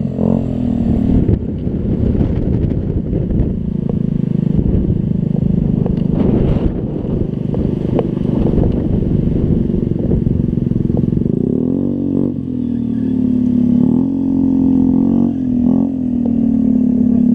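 Scooter engine running under way, its revs rising and falling several times, then holding steady near the end.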